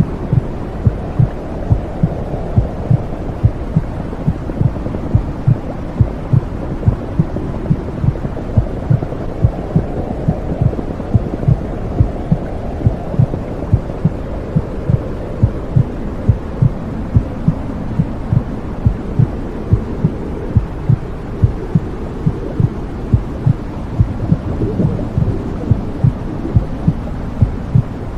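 Womb-sound white noise: a low, muffled rushing with a steady heartbeat thumping through it at an even, regular pace.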